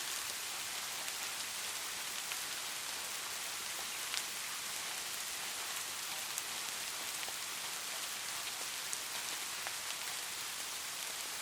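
Steady light rain falling, an even hiss with scattered small drop ticks.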